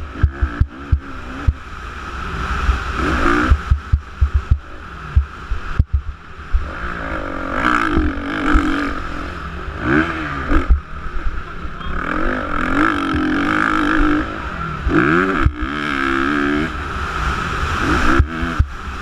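Motocross bikes racing on a dirt track, their engines revving up and dropping off again and again as riders accelerate, shift and back off.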